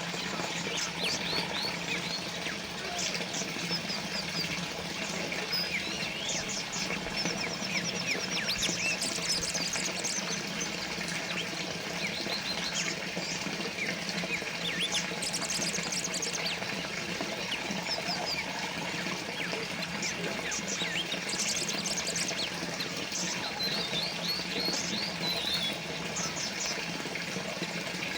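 Water trickling steadily from a small fountain, with small songbirds chirping and trilling throughout.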